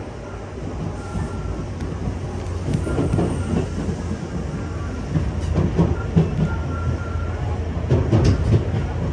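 Commuter electric train running, heard from inside the passenger car: a steady low rumble that grows louder over the first few seconds, with the wheels clattering irregularly on the track.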